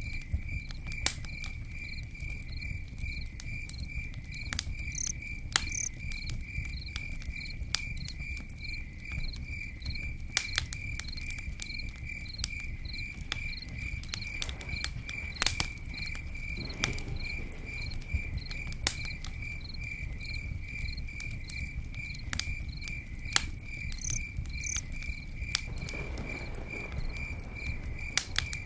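Campfire crackling, with scattered sharp pops over a low rumble, under an insect's steady, even chirping at about three or four chirps a second.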